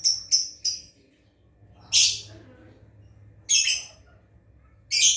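Lovebird calling: a fast run of short high chattering notes that breaks off just under a second in, then three loud, harsh shrieks about a second and a half apart.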